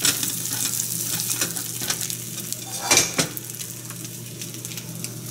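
Cheese-topped okonomiyaki sizzling in a nonstick frying pan as the cheese fries crisp on the underside. A spatula scrapes and knocks against the pan a few times, loudest about three seconds in.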